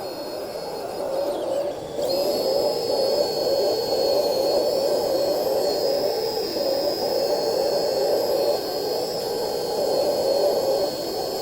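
Electric drive of radio-controlled model excavators running with a steady high whine over a wavering lower hum. About two seconds in, the whine dips sharply in pitch and then comes back up.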